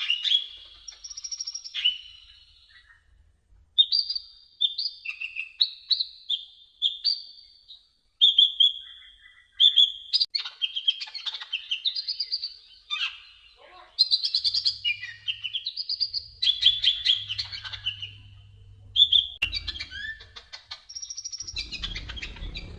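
Sunbird (kolibri ninja / konin) singing: quick runs of high, sharp chirps and whistled notes in short repeated phrases with brief pauses. A low rumble comes in under the song near the end.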